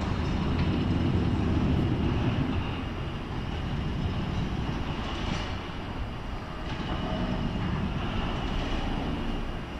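Train running along the tracks: a steady low rumble of wheels and running gear.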